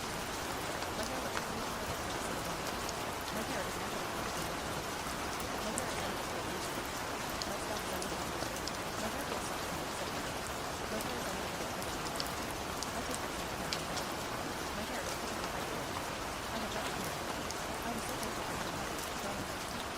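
Steady rain falling, with individual drops ticking sharply over the constant patter.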